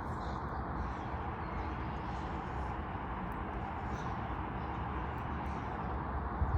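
Electric blower running steadily, a rushing of air, blowing on freshly bathed pet birds to dry them.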